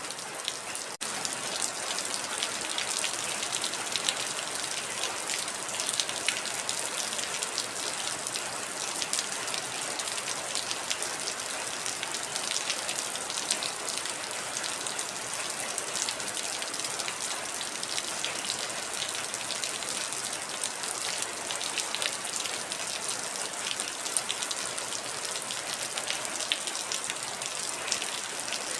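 Heavy rain falling steadily, a dense patter of individual drops hitting a surface, with a momentary dip in the sound about a second in.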